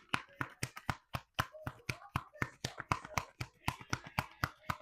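A deck of oracle cards being shuffled by hand: a rapid, even run of sharp card clicks and slaps, about five a second.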